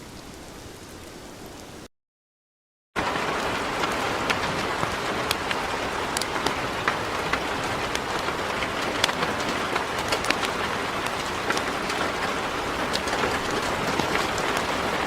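Heavy rain falling, an even hiss with many close raindrop ticks. It is softer at first, cuts to silence for about a second just before two seconds in, then comes back louder.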